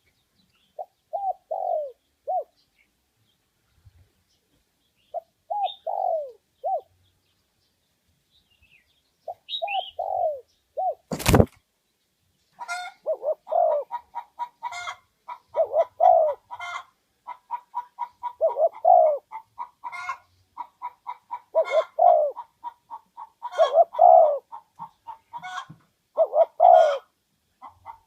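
Spotted doves cooing in short phrases of a few notes, repeated every few seconds. There is a sharp click near the middle. After it, a rapid run of short chirps continues under further coo phrases.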